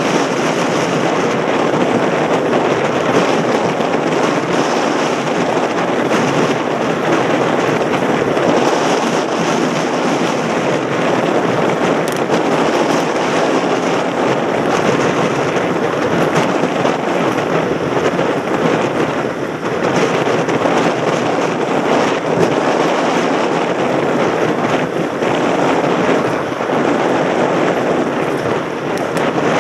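Mountain bike in motion heard from a helmet-mounted camera: a steady rush of wind on the microphone with dense crackling and rattling from the tyres rolling over a rough surface.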